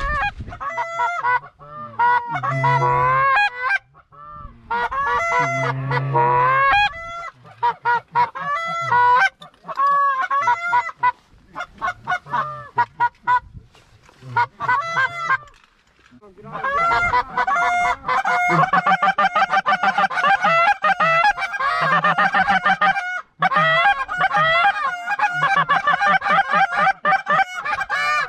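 Goose honking: many short, rapid honks and clucks in quick bursts, thickening into a dense, near-continuous chorus of calls about 17 seconds in.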